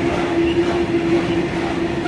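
Freight train of covered hopper wagons rolling past at speed: a steady rumble of steel wheels on rail, with one steady droning tone running through it.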